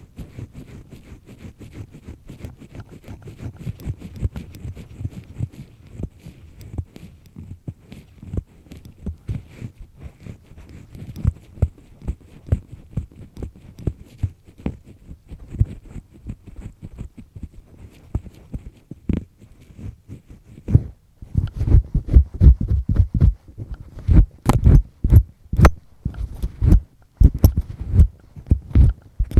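Double-disc earpick scraping and rubbing firmly in an ear, very close to the microphone: soft, rapid rustling strokes at first, turning much louder about twenty seconds in, with sharp scratchy clicks near the end.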